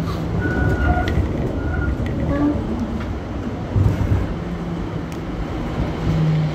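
Hong Kong Light Rail Phase III tram running along the track: a steady low rumble of wheels and running gear, with a low hum heard at the start and again near the end.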